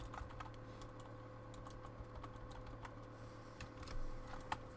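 Faint, irregular light clicks and taps, a few a second and unevenly spaced, over a steady low electrical hum.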